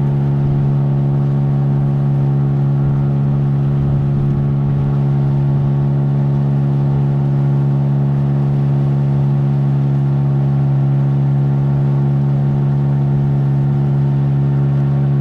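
Boat motor running steadily at a constant speed, its pitch unchanging throughout.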